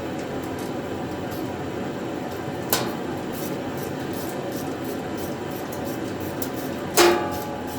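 Two sharp metallic clinks about four seconds apart, the second louder and ringing briefly: steel hardware or a hand tool knocking against the sheet-steel welding cart during assembly, over a steady hiss.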